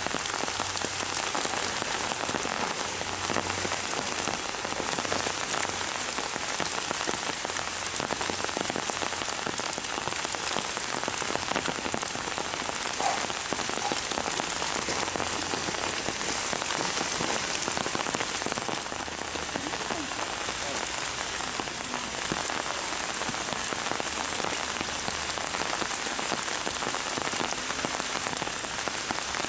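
Heavy rain falling steadily, an even hiss of drops on the ground and surfaces.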